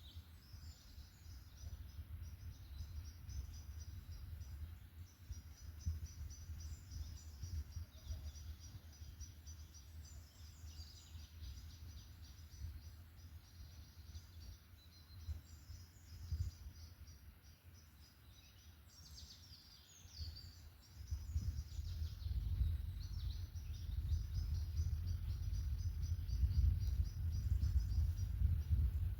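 Forest birds singing, a dense run of high chirps and trills, over a low rumble that grows louder about two-thirds of the way through.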